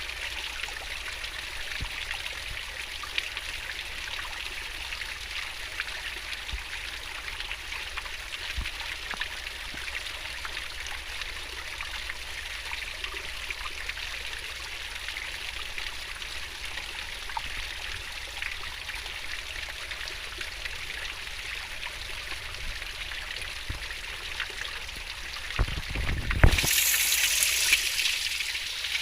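Swift-flowing stream water babbling steadily. Near the end a brief low rumble is heard, then the rushing becomes louder and brighter.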